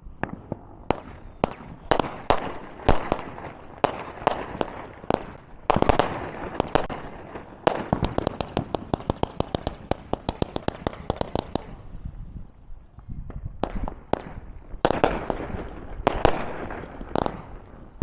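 Several small consumer firework cakes going off together: sharp bangs and crackles from about a second in, then a fast rapid-fire run of pops in the middle. After a short lull, more bangs come near the end.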